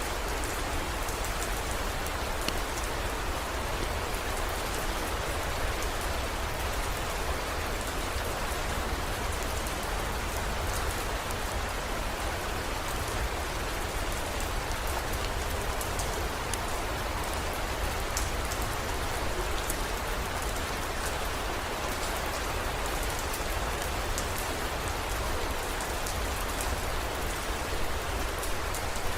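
Heavy rain falling steadily, an even hiss with scattered small drop ticks over a low steady rumble.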